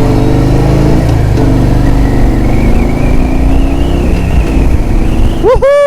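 Motorcycle engine running and accelerating, its pitch climbing slowly. Near the end it gives way to a loud cat's meow that rises and then falls.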